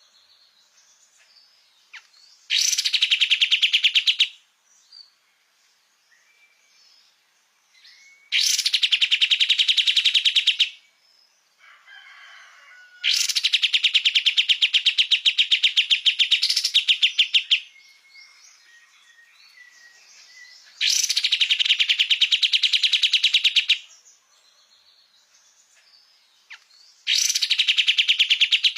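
Pied triller (kapas tembak) singing: five loud, fast trills of two to four seconds each, the last cut off at the end, with faint short chirps in the gaps between them.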